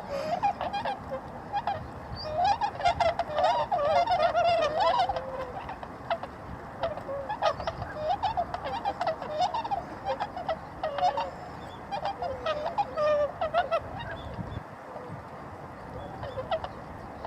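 A flock of tundra swans calling, many calls overlapping, busiest a few seconds in.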